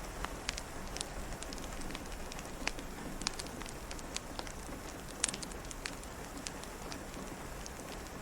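Wood fire crackling, with irregular sharp pops and snaps, over a steady hiss of rain.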